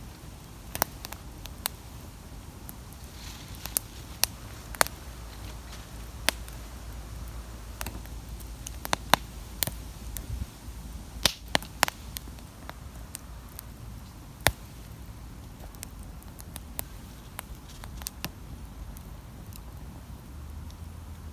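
Wood campfire crackling, with irregular sharp pops and snaps of varying loudness over a low steady rumble.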